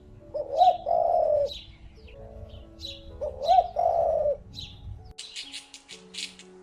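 A bird cooing twice, each call a couple of low arching notes, with short high chirps in between, over steady background music; a quick clicking rhythm comes in near the end.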